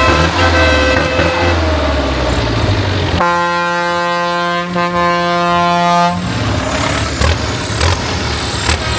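Low running of tractor engines, with a vehicle horn sounding one long steady note for about three seconds starting about three seconds in.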